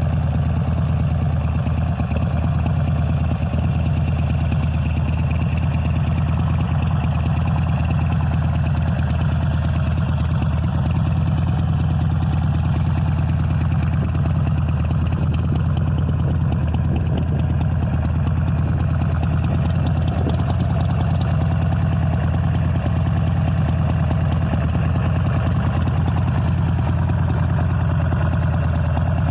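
Buell XB9S's 984 cc air-cooled V-twin idling steadily, with a deep, even note and no revving.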